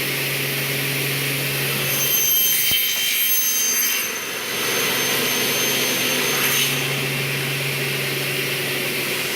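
A 09X double-head aluminium cutting saw running, its motors humming steadily. From about two seconds in, the blades cut through an aluminium profile with a high whine that fades around six and a half seconds, and then the steady motor hum returns.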